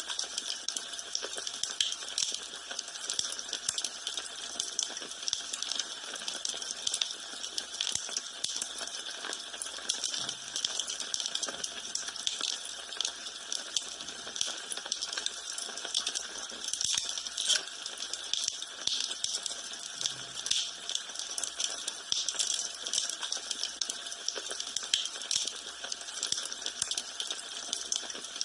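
Wood fire in a fireplace crackling steadily, with a constant patter of small sharp pops and snaps.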